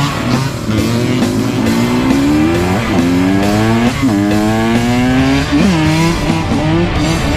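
An off-road vehicle engine accelerating hard and shifting up through the gears: its pitch climbs, then drops sharply at each of about three shifts. Rock music with guitar plays underneath.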